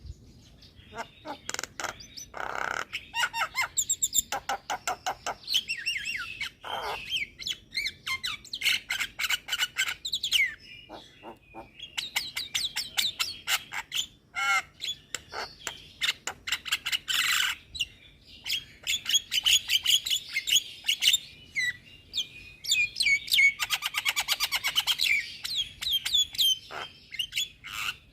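Javan myna singing a long, varied song: rapid runs of clicks and rattles mixed with whistled, gliding notes and squeaky chatter, in phrases broken by short pauses.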